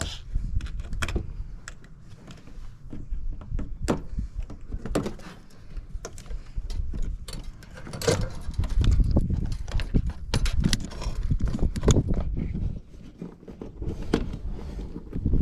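Scattered clinks, clicks and knocks of metal parts and hand tools being handled while an appliance is taken apart for scrap, busiest about halfway through, over a low rumble.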